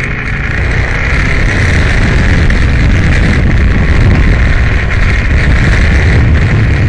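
Aprilia Tuono motorcycle engine running hard at speed, heard loud and continuous together with the rush of wind.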